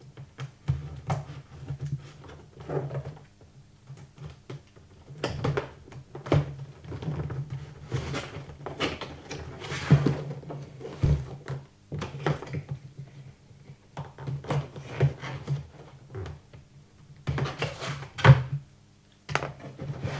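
Cardboard packaging being handled and torn open: irregular rustling, scraping and knocks, with a steady low hum underneath.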